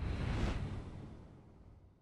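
A rushing whoosh of noise over a low rumble, swelling to a peak about half a second in and then fading away.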